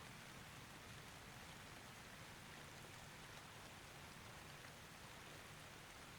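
Faint steady rain: an even soft hiss with light patter of drops.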